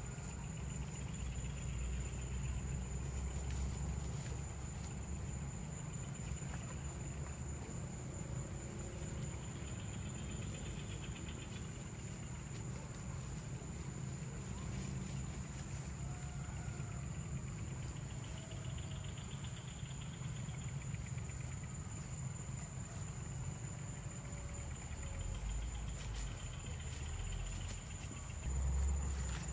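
Insects chirring steadily, with a high steady whine and a constant low rumble underneath.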